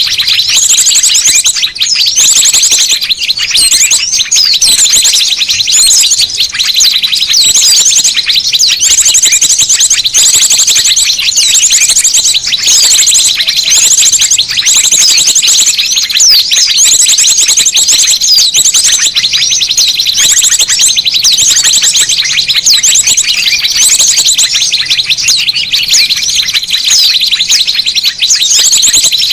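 Lure recording of many small birds calling at once: a loud, unbroken mass of high chirps and rapid repeated trills.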